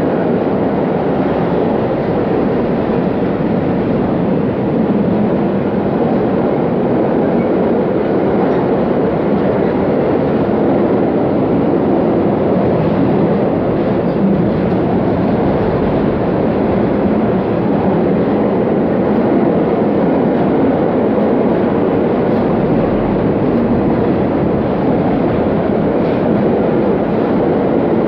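Empty double-deck car-transporter freight wagons rolling past at a steady speed: a continuous, even noise of steel wheels running on the rails.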